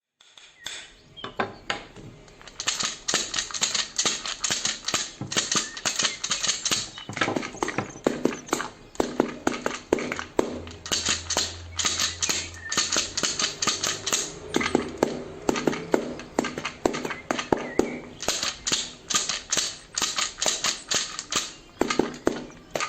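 Rapid, irregular clicking and tapping, many sharp strikes a second in clusters, with a faint low hum for a few seconds in the middle.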